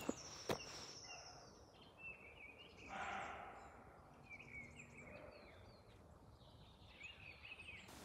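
Quiet woodland with small birds making short, faint, high chirps on and off. Two short knocks come right at the start, and a faint hazy swell comes about three seconds in.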